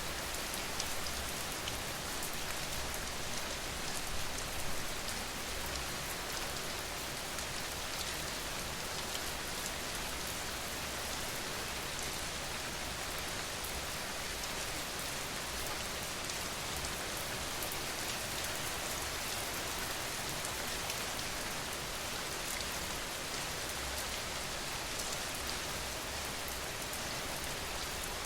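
Steady rain falling, an even hiss of many fine drops striking a surface, with a few slightly louder patters about four seconds in.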